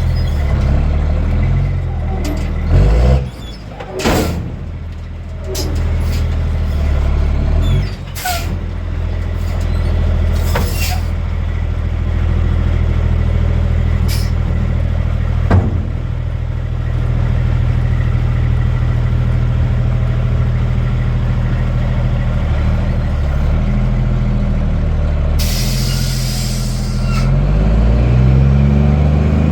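Dump truck's Cummins M11 diesel engine running, its speed shifting several times, with a few sharp knocks in the first half. A burst of air hiss comes from the air brakes late on, and then the engine revs up near the end.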